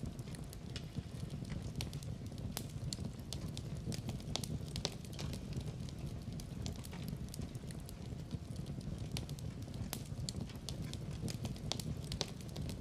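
Fireplace fire crackling, with frequent irregular sharp pops over a steady low rumble of burning.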